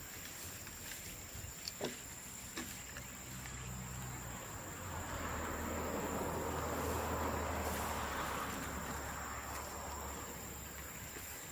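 Bamboo bonfire burning, with two sharp pops about two seconds in, over a steady high-pitched tone; a low rumble and hiss swell up in the middle and fade again.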